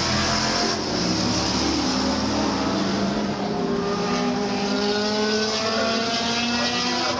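Historic racing cars on track, their engines running hard at high revs, the pitch climbing gradually as they accelerate.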